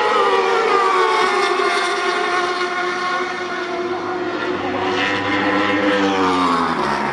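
Racing motorcycle engine running hard, its pitch falling slowly, levelling off, then dropping again as the bike slows.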